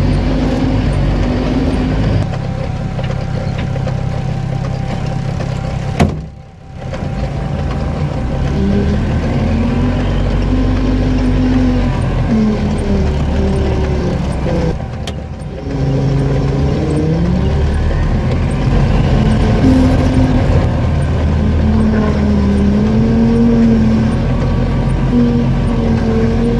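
Off-road vehicle engine running under changing throttle on a rough dirt track, heard from inside the cab, its pitch rising and falling again and again. A sharp click about six seconds in is followed by the sound briefly dropping away, and there is another short dip about fifteen seconds in.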